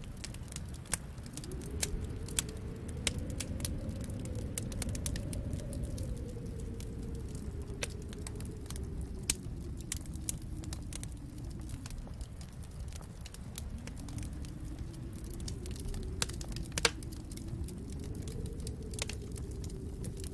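Wood fire crackling in a fireplace, with frequent sharp pops; the loudest comes a little before the end. Under the crackle is a low, steady rushing that swells and fades twice.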